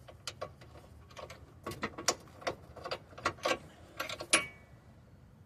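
Hand tools clicking and clinking against metal suspension parts in an irregular series of sharp clicks. A louder metallic clink that rings briefly comes a little over four seconds in.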